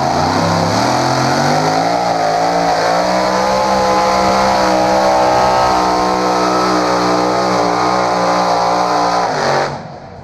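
A tractor-pull competitor's engine at full throttle hauling the weight sled. It rises in pitch over the first second or so, holds a loud steady howl, then cuts off suddenly near the end as the driver gets off the throttle.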